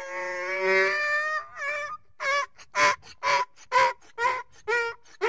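Donkey braying: one long drawn-out call, then a run of short calls about two a second.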